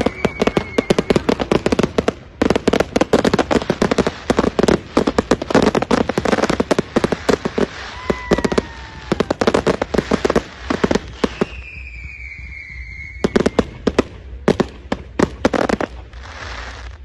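Fireworks display going off in rapid, dense volleys of bangs and crackles, with several whistling tones that fall in pitch. The firing thins out about twelve seconds in, then comes back in a last cluster of bangs.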